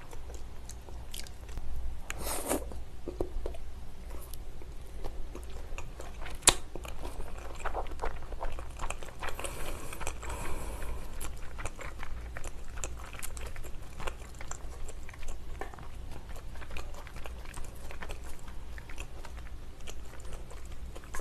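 Close-miked chewing of raw salmon sashimi: soft, wet mouth clicks and smacks throughout, with a louder burst about two and a half seconds in and a single sharp click about six and a half seconds in.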